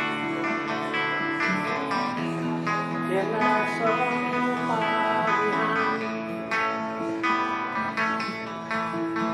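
Instrumental passage of a song on acoustic guitar: plucked and strummed notes ringing on, a new chord or note about every second.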